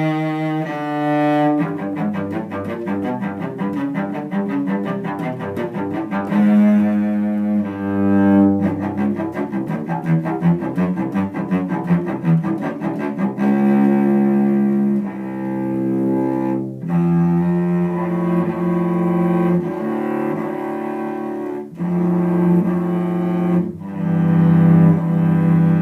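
Solo cello, a 2002 Eric Hausner full-size instrument with Spirocore tungsten G and C strings, played with the bow: a run of sustained notes, changing pitch every second or so, with brief breaks between phrases near the end.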